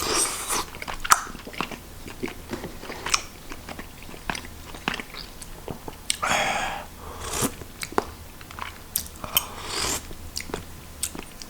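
Close-mic chewing of chewy Korean rice cakes in spicy sauce: irregular wet mouth clicks and smacks, with a few longer noisy moments along the way.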